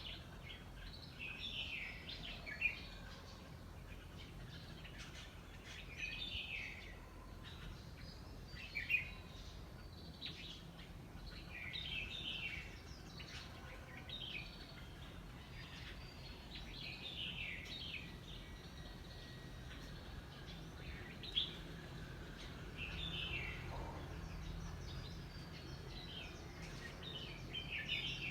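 Birds singing: short, falling, chirpy phrases repeated every second or two, over a steady low background hum.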